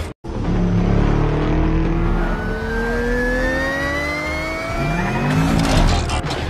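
Car engine sound effect accelerating, starting just after a split-second gap, its pitch climbing steadily for several seconds. About five seconds in there is a short rev that rises and falls.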